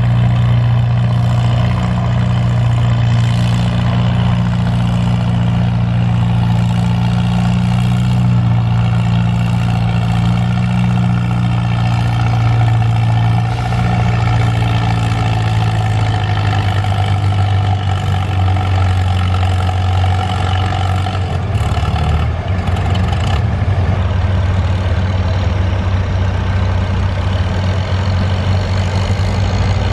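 Antique farm tractor engine running steadily, its note dropping somewhat lower about halfway through.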